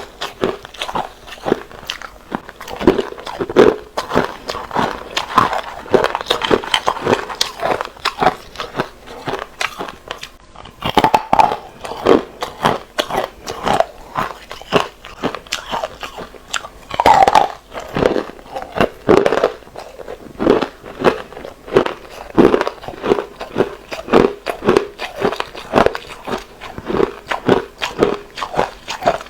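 Hard ice being bitten and chewed close to the microphone: rapid, irregular crunches, several a second, with a short pause about ten seconds in.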